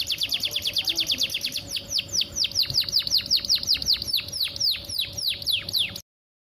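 Female canary calling to a male while in breeding condition: a rapid string of short, downward-sweeping chirps that slows to a steadier, more spaced series after about two seconds, then cuts off abruptly near the end.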